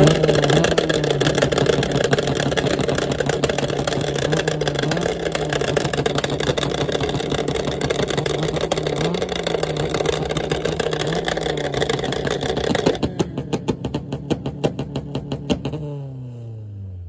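Tuned Honda engine held at high, steady revs with a slight wavering for about thirteen seconds. It then stutters in quick pulses for a few seconds before the revs fall away.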